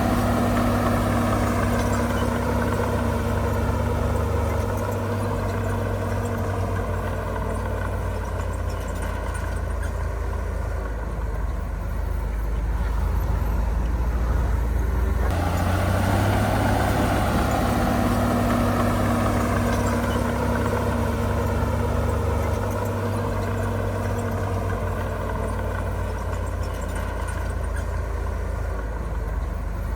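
Heavy diesel earthmoving machinery engine running steadily, its pitch wavering slightly as the load changes. The sound jumps abruptly about halfway, and then a nearly identical pattern starts over.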